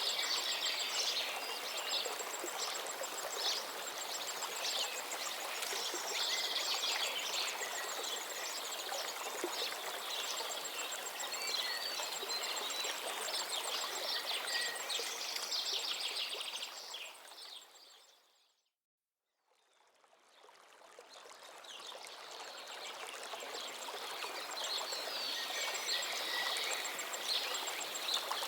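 Flowing stream water with many small birds chirping over it. About two-thirds of the way through, everything fades out to a second of silence, then fades back in.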